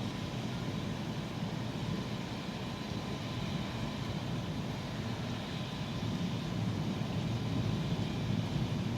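Steady rain with a low rumble underneath that swells slightly in the second half.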